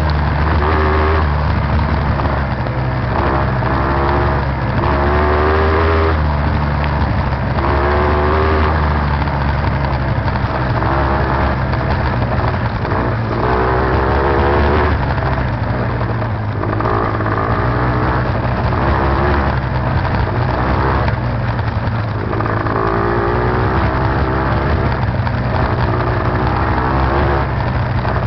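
Beta TR 33 trials motorcycle's two-stroke engine heard from onboard while riding, revving up and dropping back again and again as the throttle is opened and closed.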